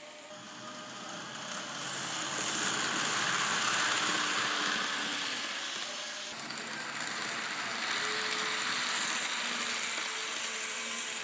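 N scale model train running past on its track: a steady whirring, rattling run of wheels and motor that swells, eases about halfway through, then rises again.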